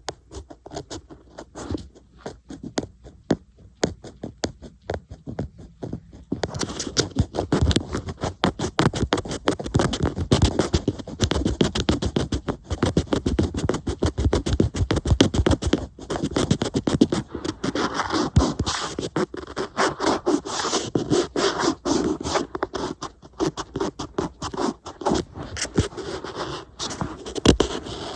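Tapping and scratching on an iPad: a few light taps at first, then from about six seconds in a dense, rapid run of scratching strokes.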